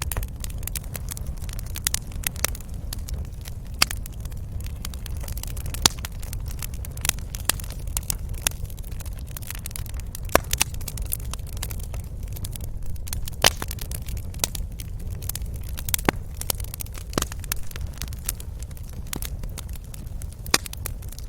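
Wood fire in a fireplace crackling, with frequent irregular sharp pops, a few louder than the rest, over a steady low rumble.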